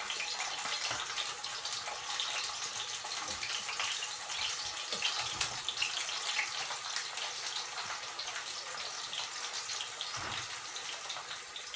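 Eggplant slices sizzling as they shallow-fry in hot oil in a frying pan: a steady hiss flecked with fine crackles.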